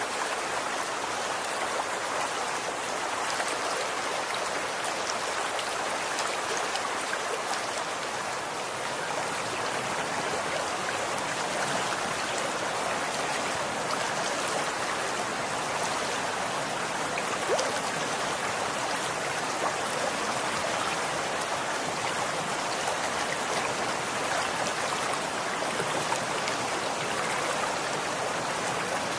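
Running water: a steady, even rush of flowing water with small scattered splashes and drips.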